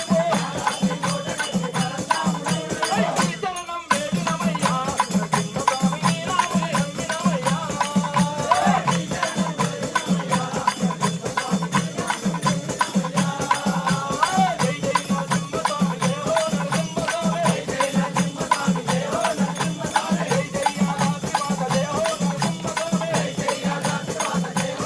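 Devotional Ayyappa bhajan: voices singing a chant-like melody over a steady beat of jingling hand percussion, like a rattle or tambourine, with a brief break about 4 seconds in.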